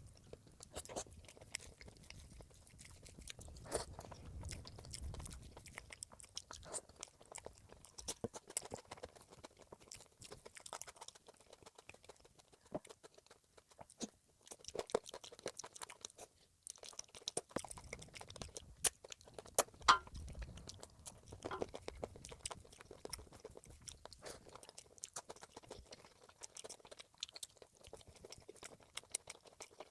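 A person eating close to the microphone: chewing, with irregular crunches and short mouth clicks.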